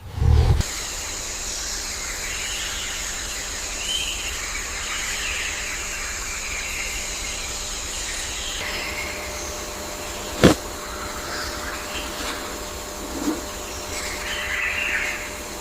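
A steady hum with scattered bird chirps, a low thump at the very start and a sharp click about ten seconds in.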